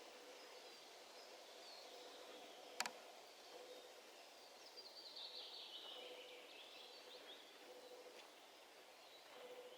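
Faint summer-forest ambience: small birds chirping and singing, with a busier stretch of song around the middle. A single sharp click comes a little under three seconds in.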